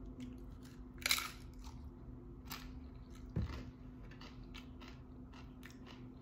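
Close-miked bites and chewing of a tortilla chip with guacamole: a sharp crunch about a second in, another about a second and a half later, then a run of small crackling crunches as it is chewed.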